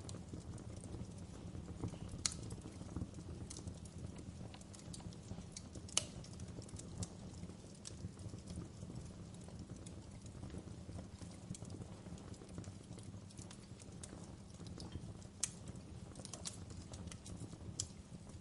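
Wood fire crackling in a fireplace: a steady low rumble of burning wood with irregular sharp pops and snaps, a few of them louder than the rest.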